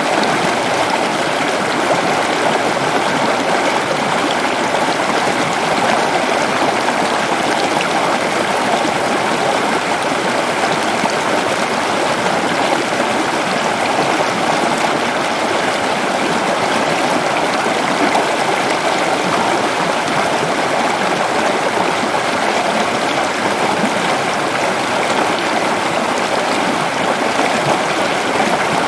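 Waterfall rushing steadily, a dense, even wash of falling and splashing water.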